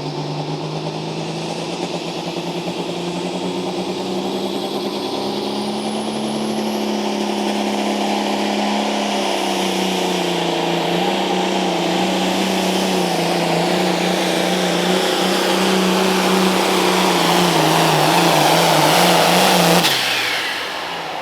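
Pulling tractor's engine running hard under load through a pull, growing steadily louder. Its pitch steps down about nine seconds in. It shuts off abruptly near the end.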